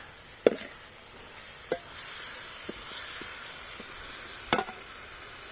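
Chicken curry with tomato sizzling and bubbling in a pan, a steady hiss that swells a little about two seconds in. Three sharp metallic knocks, spoon against pan, come about half a second in, near two seconds and near the end, with a few fainter taps between.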